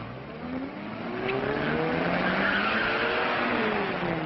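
Propeller airplane engine, rising in pitch for about three seconds and then falling, starting abruptly.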